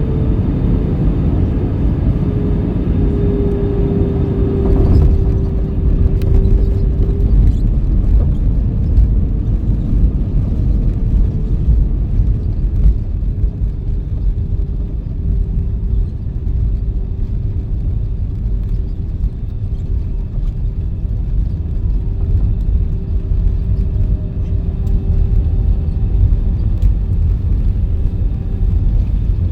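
Cabin noise inside an Airbus A319 airliner: a steady low rumble of engines and airflow with a faint steady whine, swelling briefly about five seconds in.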